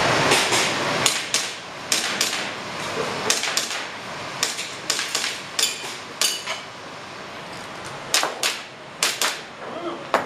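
Airsoft pistol shots on a practical-shooting stage: sharp cracks fired in quick pairs and short strings, with short gaps between them.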